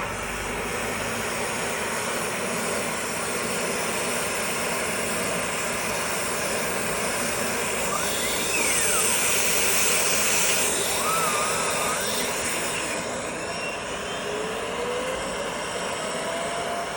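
Dryer vent cleaning equipment running with a steady rush of air, louder and hissier for a few seconds in the middle, with a few short whistling glides over it.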